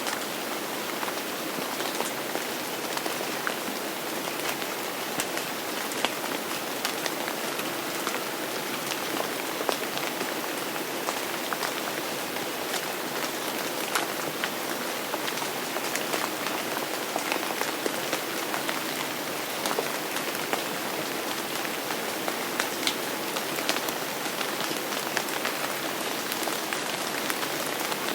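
Steady rain falling and pattering on a surface, with many individual drops heard as scattered sharp taps over the even hiss.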